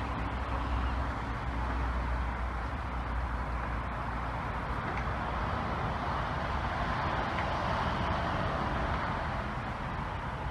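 Steady outdoor background noise: a continuous low rumble and hiss with no distinct events.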